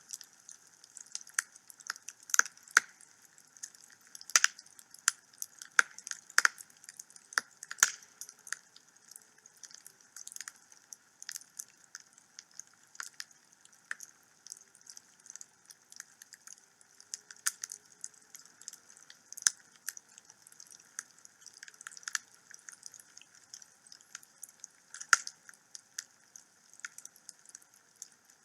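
Wood fire burning in a home fireplace, crackling with many irregular sharp pops and snaps over a faint steady hiss.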